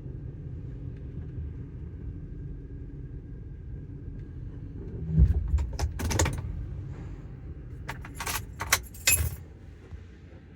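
Steady low rumble heard from inside a truck's cab in an automatic car wash, broken about halfway through and again near the end by short clusters of sharp jingling clicks.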